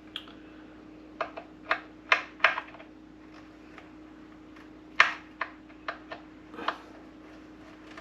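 Irregular light clicks and clacks of hand tools and small plastic and metal parts being handled and set down, about a dozen in all, the loudest about five seconds in, over a faint steady hum.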